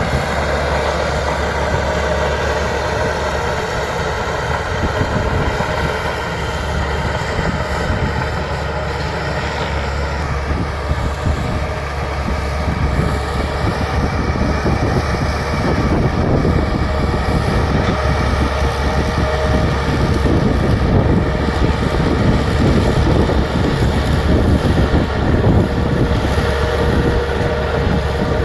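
Bulldozer's diesel engine running steadily under work, growing somewhat louder about halfway through.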